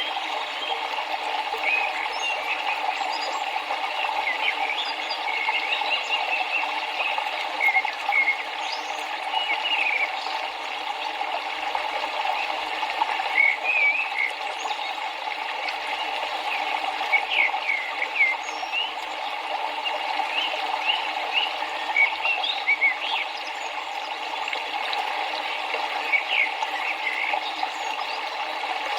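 Steady rush of a river or stream, with many short bird chirps scattered over it.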